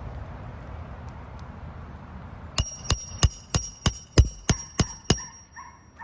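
Hammer striking a metal roofing snake tool about nine times, roughly three quick blows a second. Each blow has a short metallic ring as it drives a roofing nail under a shingle.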